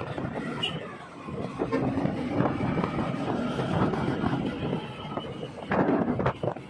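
A motor vehicle running, a steady mechanical noise, with a few sharp knocks near the end.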